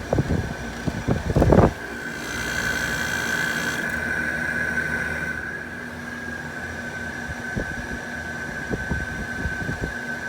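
Window air conditioners running with a steady hum and a high, steady whine. About the first second and a half is covered by loud knocks and rumbling from a unit being handled as it is switched off.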